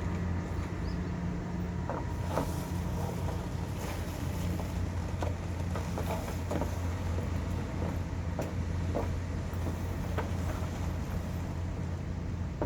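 Steady low engine drone of a vehicle under way, with a few small clicks and rattles.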